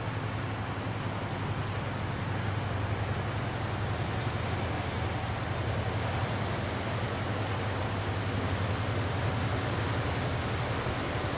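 Steady low throb of an inland cargo ship's diesel engine running under way, under a broad, even rushing noise.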